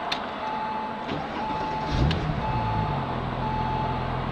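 Porsche 911 Turbo's twin-turbo flat-six being started: a click, then about two seconds in the engine catches and settles into a steady idle, heard from inside the cabin. A steady warning tone beeps over and over throughout: the seatbelt reminder.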